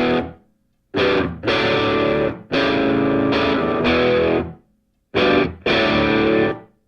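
Background music: a distorted electric guitar playing sustained chords in short phrases that stop abruptly into full silence several times.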